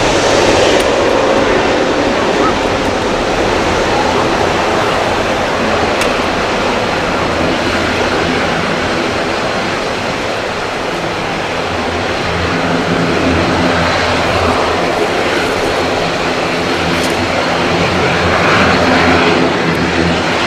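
Jet engines of an Airbus A320neo airliner (Pratt & Whitney PW1100G geared turbofans) running with a loud, steady rush and a low hum under it, easing slightly midway and swelling again near the end.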